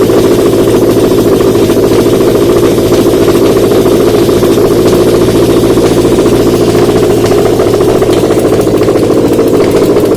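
Subaru EJ203 2.0-litre flat-four engine, out of the car on a test stand, idling steadily.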